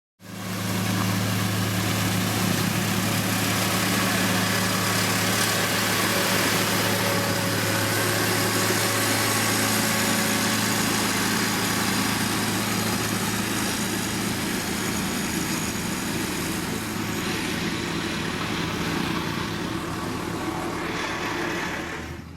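Diesel engine of heavy road-construction machinery running steadily, with a low hum under a broad rushing noise.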